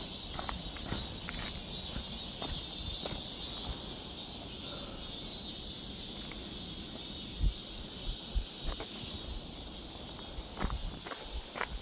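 Insects calling steadily in a forest, a continuous high-pitched chorus, with scattered footsteps on the forest floor, more of them near the start and near the end.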